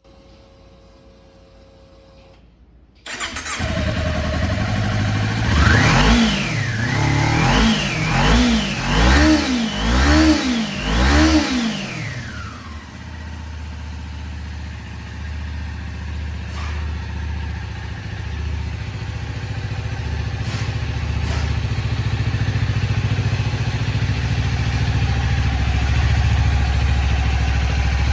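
Kawasaki Ninja 250's 249 cc parallel-twin engine starting about three seconds in, after a quieter steady sound. It is revved in about five quick throttle blips, then settles into a steady idle.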